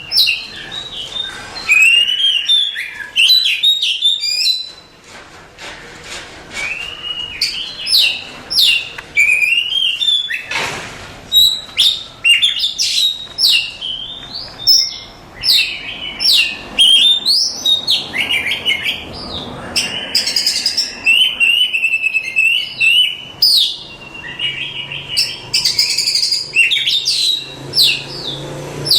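Oriental magpie-robin (kacer) singing a long, varied song: loud whistles, quick rising and falling sweeps and rapid chattering phrases, one after another without pause.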